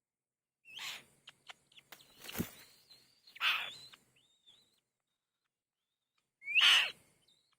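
Bird calls in short separate bursts, several opening with a quick rising note, the loudest one near the end, with a few thin clicks and a soft knock in between.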